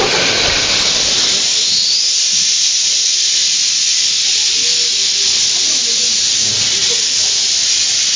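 Quarry Hunslet steam locomotive letting off steam in a loud, steady high-pitched hiss.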